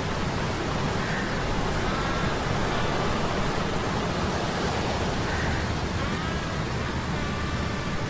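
Sea storm sound effect: a steady rushing of wind and surf over a low hum of metal gears, with faint whistling tones that rise and fall every few seconds.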